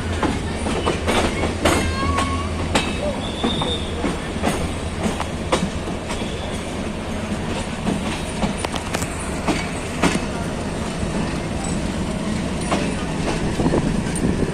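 Passenger train running on the rails: a steady rumble with many irregular clanks and knocks of wheels over rail joints, and a few brief high-pitched wheel squeals in the first few seconds.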